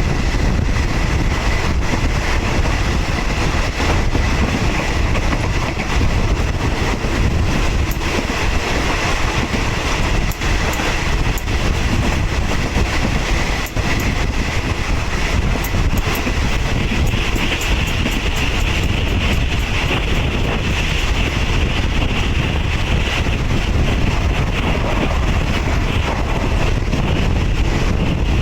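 Steady rumble and rattle of a moving State Railway of Thailand passenger train, heard from inside a third-class coach, with a few brief wheel clicks.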